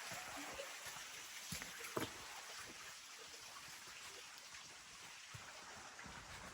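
Steady rush of water running along a levada, a narrow irrigation channel, with a couple of soft knocks about two seconds in.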